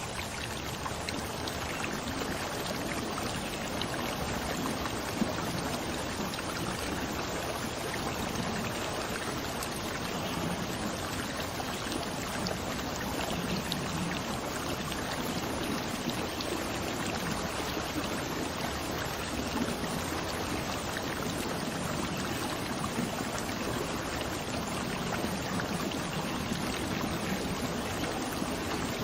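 Flowing water, a steady, even rush.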